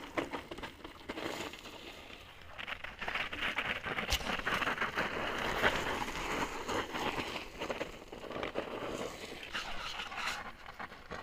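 Mountain bike rolling over a rocky, gravelly trail: tyres crunching on loose stones with many small clicks and rattles, and one sharp knock about four seconds in.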